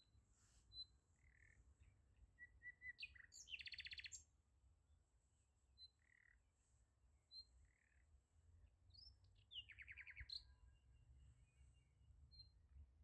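Faint small-bird chirps, with two short, rapid trills: one about three and a half seconds in and another about nine and a half seconds in.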